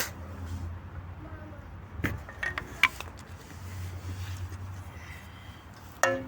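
A few light metallic knocks and clinks over a low steady hum, from tools being handled while repairing a shovel. Near the end, loud ringing pitched strikes begin, about two a second.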